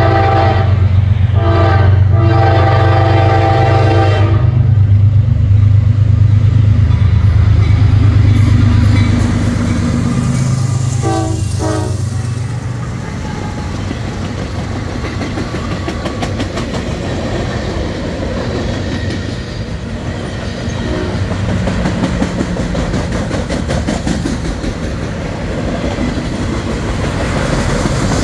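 CSX diesel freight locomotives sound their multi-note air horn for a grade crossing: a short blast, then a long one ending about 4 s in. The diesel engines rumble loudly past at close range, with a brief horn toot about 11 s in. Then the steady clatter and rumble of the loaded flatcars' wheels on the rails follows.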